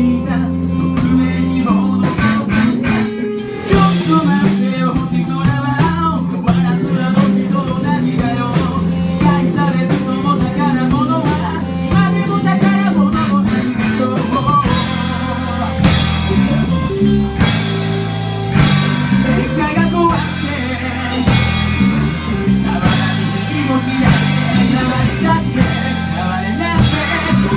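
Rock band playing: guitar, drum kit and singing. The band gets fuller, with heavy cymbals and drums, about halfway through.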